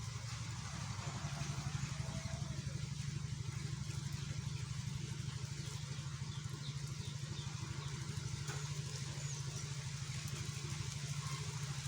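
A steady low mechanical hum with a fast flutter, like a small engine idling. Faint, scattered high chirps from a young songbird sound over it.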